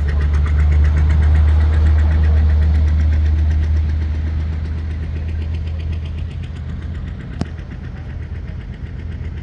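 A large engine running loudly with a steady, even throb. It grows louder over the first two seconds, then slowly fades.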